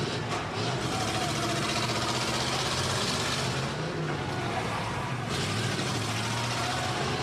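Demolition derby cars' engines running and revving, their pitch rising and falling, under a steady noisy din.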